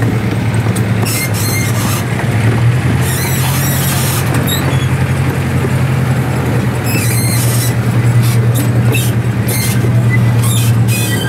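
Small passenger train rolling along its track with its engine running steadily, while the metal wheels squeal and squeak against the rails several times as the train rounds a curve.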